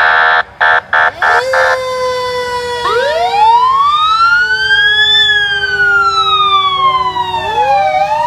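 Fire engine horn sounded in a quick string of about five short blasts, then a fire engine siren winding up into a slow wail: rising for about two seconds, falling for about three, and rising again near the end, over a steadier siren tone.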